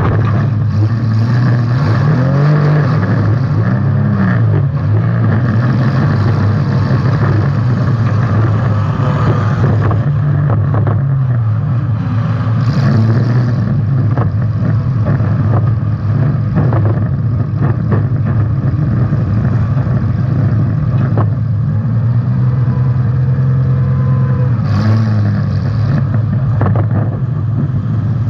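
Demolition derby car's engine running hard and revving up and down, heard from inside the car, with scattered knocks and bangs from the car being driven and hit.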